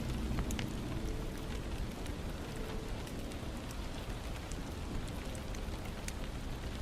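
Steady soft hiss with scattered small sharp crackles, an ambience bed, with the music dropped almost away.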